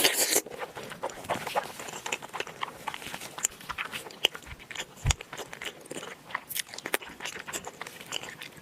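A person chewing and biting food close to the microphone, a dense run of small sharp mouth clicks and crunches, with a louder burst right at the start.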